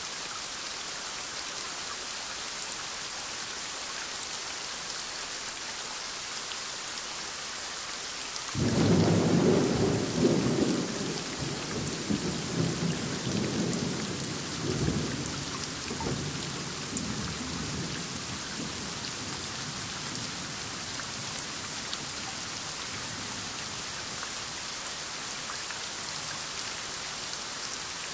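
Steady heavy rain falling, with a loud clap of thunder breaking in suddenly about a third of the way through and rumbling on for several seconds before rolling away.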